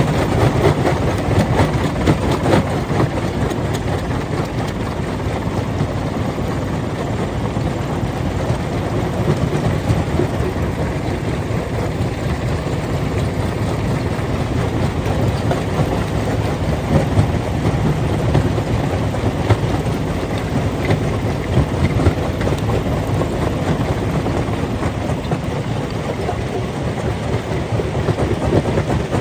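Stone-crushing machinery running steadily, with a continuous dense clatter of rock over the drone of the machine.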